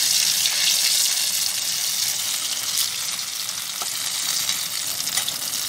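Pieces of steamed colocasia (arbi) leaf roll frying in hot mustard oil in a kadai: a steady dense sizzle, loudest in the first couple of seconds and easing slightly after. A few faint clicks come from the metal spatula turning the pieces.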